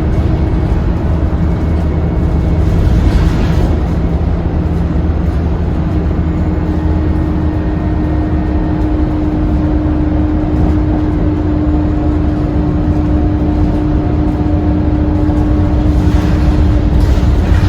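Scania K230UB city bus's diesel engine running as the bus drives along, a steady rumble with a steady whine over it. Brief hissing comes about three seconds in and again near the end.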